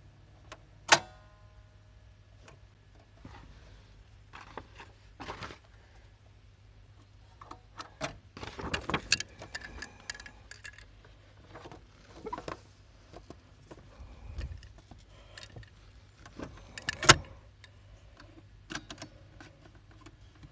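Small metal parts of a vintage Ricoh Synchrofax being handled during repair: scattered clicks, clacks and light rattles, with a sharp click that rings briefly about a second in, a busy flurry of clicks midway, and another sharp click near the end, over a low steady hum.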